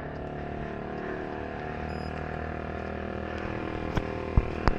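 A motor vehicle's engine running steadily, slowly growing a little louder, with a few sharp clicks near the end.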